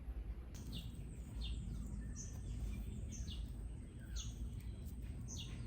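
A bird chirping repeatedly outdoors, short falling chirps about once a second, over a steady low background rumble.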